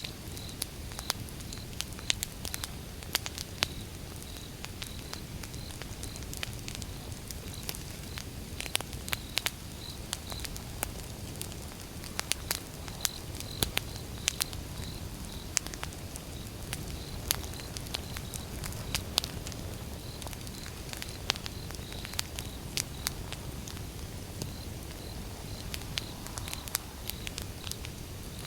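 Wood fire burning: irregular sharp crackles and pops over a low steady rumble of flame. A high chirp repeats at one pitch about two to three times a second, dropping out for stretches.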